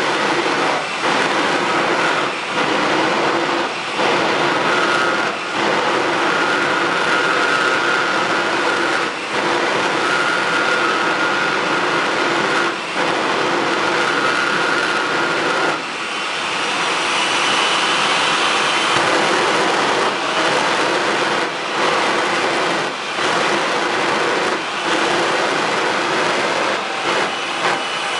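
Jet truck's jet engine running hard in a loud, steady rush with a high whine over it; the whine moves higher about halfway through, and the level dips briefly every second or two.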